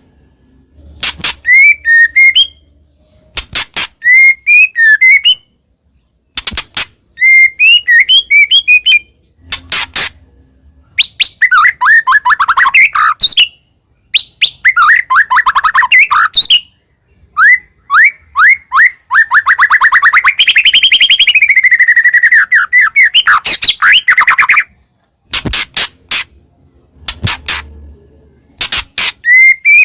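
White-rumped shama (murai batu) singing loudly in short, varied bursts of whistled notes and sharp clicks, with brief pauses between phrases. About two-thirds through it delivers a long run of rapid repeated notes that rises and then falls in pitch.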